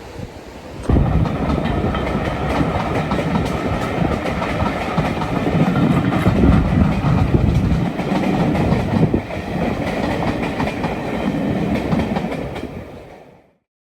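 A passing train rumbling along the line with wheel clatter, starting abruptly about a second in and fading out near the end.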